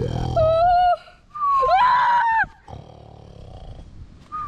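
Drawn-out, roar-like cries that bend up and down in pitch: a short one, then a louder one that swoops up and falls away, then a quieter stretch and a long cry that slowly falls near the end.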